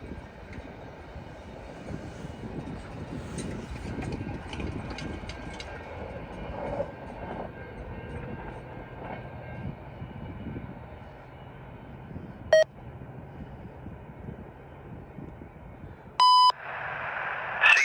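Freight train cars rolling past with a steady wheel-on-rail rumble and scattered light clicks and squeaks. Near the end a scanner radio gives a short beep and then a loud half-second tone, the alert that opens a trackside defect detector's broadcast.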